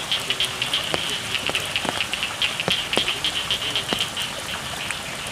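Steady rain with single drops striking close by as sharp ticks, over a chorus of frogs calling in rapid, high pulses.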